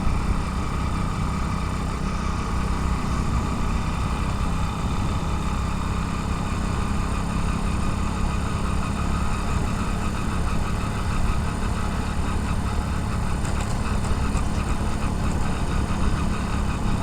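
Motorcycle engine running steadily while riding, a continuous low rumble mixed with wind and road noise, heard from a helmet-mounted camera.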